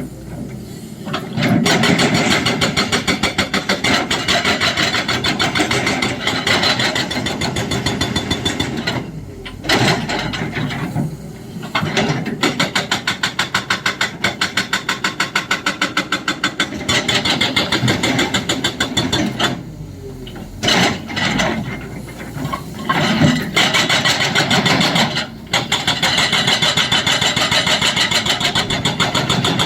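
Excavator-mounted hydraulic breaker hammering rapidly over the excavator's running engine, in long runs of fast, even blows broken by a few short pauses.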